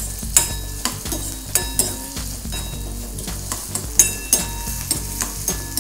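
Chopped onions, green chillies and curry leaves sizzling in hot oil in an aluminium kadai while a spoon stirs them, with repeated clinks and scrapes of the spoon against the pan, some ringing briefly.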